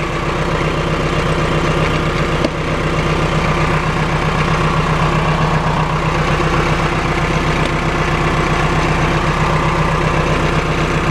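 Case 570 MXT tractor's 3.9-litre Cummins four-cylinder diesel idling steadily, with a single click about two and a half seconds in.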